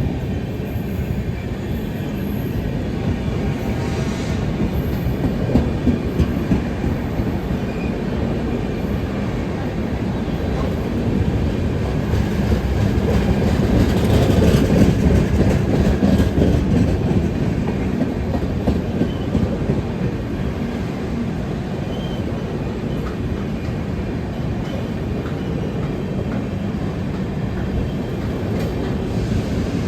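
Electric train running on the track: a steady rumble with wheel clatter that swells louder about halfway through, then eases back.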